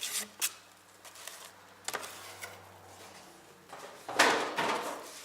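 Handling of a boxed power supply and its packaging: a few light knocks, then a louder rustling scrape of packaging about four seconds in.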